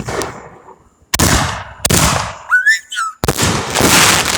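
Fireworks going off close by: a sharp bang, then a run of loud blasts, the last starting about three seconds in and lasting nearly two seconds. A short high whistle sounds between the blasts.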